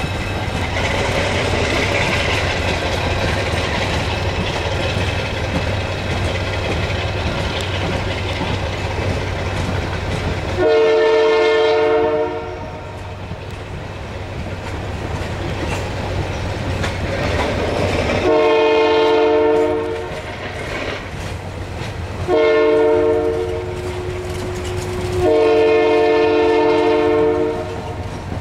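Passenger coaches rolling past with steady wheel rumble and rail clatter, while the train's diesel locomotive horn sounds four blasts, several notes at once: long, long, short, long, the standard grade-crossing signal.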